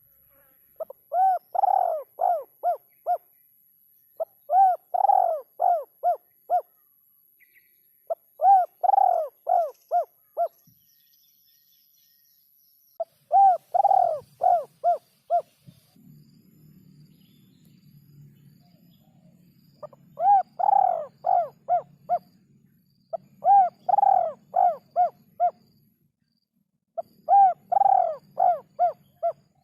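A derkuku dove cooing: seven phrases of five or six quick coos each, repeated every few seconds with a pause of several seconds in the middle. A faint low hum sits under the later phrases.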